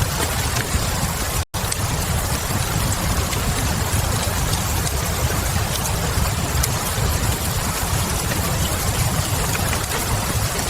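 Steady rain-and-fireplace ambience: a constant hiss of rain over a low rumble, with a few faint crackles from a wood fire. The sound cuts out for an instant about one and a half seconds in.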